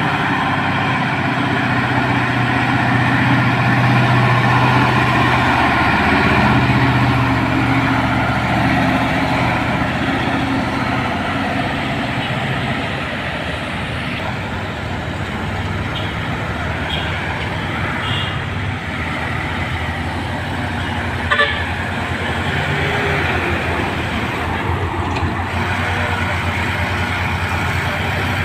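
Heavy Fuso truck's diesel engine running under load on a hill climb, a steady low drone that is strongest in the first several seconds and then settles to an even rumble. A single short, sharp sound cuts in about two-thirds of the way through.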